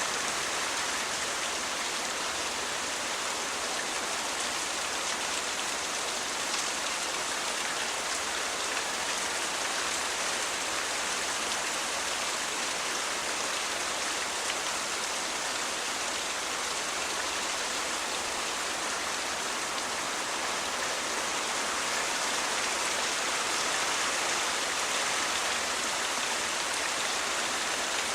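Steady rain falling, an even hiss that swells slightly near the end.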